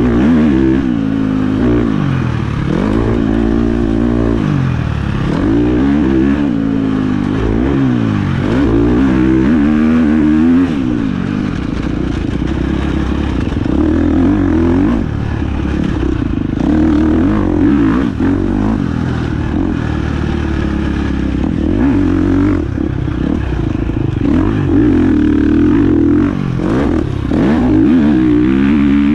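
1996 Honda CR125's two-stroke single-cylinder engine being ridden hard. It revs up and falls off again and again for the first ten seconds or so, then holds high revs with brief dips.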